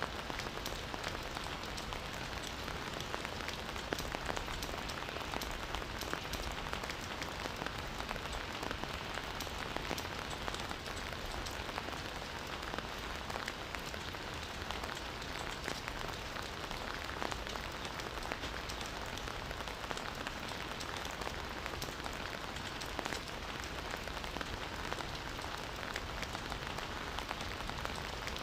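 Steady, even rainfall, with many separate drop ticks over the wash of noise.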